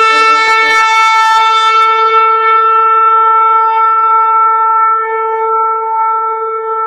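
One long horn blast held on a single steady note. It starts with a rough attack and a brief rise in pitch, then sustains evenly without a break.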